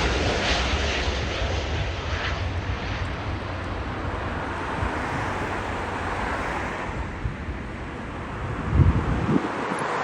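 Jet airliner's engines on approach to land, a steady rush and low rumble that slowly fades as the aircraft passes and moves away. A couple of low thumps near the end.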